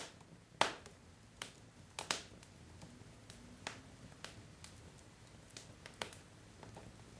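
Wood logs burning in a fireplace, crackling with irregular sharp pops and snaps over a faint low hiss of the flames.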